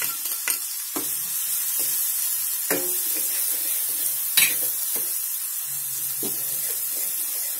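Paste of dried coconut, ginger, garlic and onion sizzling in hot oil in a kadai while a metal spoon stirs it, with scattered clicks and scrapes of the spoon against the pan; the sharpest knock comes a little past the middle.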